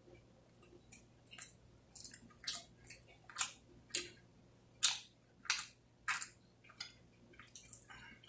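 Close-up chewing and eating sounds from a person eating wings and onion rings: a string of short, irregular mouth noises, roughly one or two a second, loudest in the middle.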